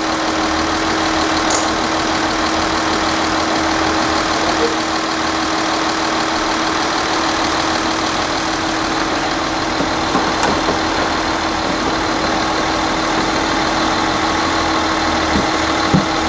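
Hyundai Veracruz SUV engine idling steadily, with a constant hum.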